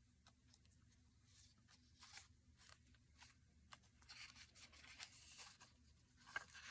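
Faint rustling of paper and light clicks as the pages of a handmade paper journal are handled, almost at the level of room tone.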